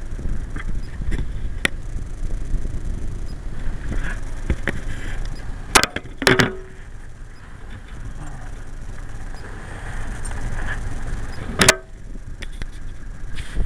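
Suzuki GSX-R1100 motorcycle running on the road with a steady low wind rumble on the sunglasses camera's microphone. A few sharp clicks come about six seconds in and again near the end.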